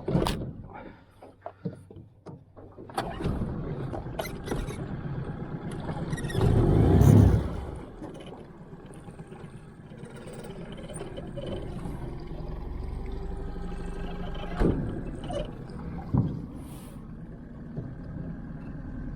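9.9 hp Mercury outboard motor pushing a 14-foot jon boat, with a few knocks in the first three seconds, a loud surge about six to seven seconds in, then a steady drone.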